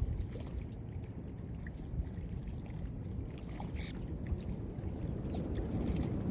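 Beach ambience: a steady low rumble of surf and wind, with a short high bird call about four seconds in and a brief chirp a little after.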